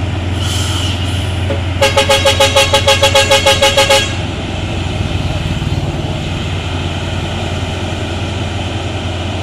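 A truck horn sounding in a fast pulsing series, about six blasts a second, for roughly two seconds, over the steady low drone of a heavy truck engine. A short high tone comes just before it.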